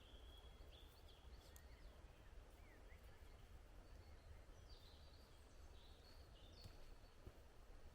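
Near silence: faint forest ambience with a few short, soft bird chirps.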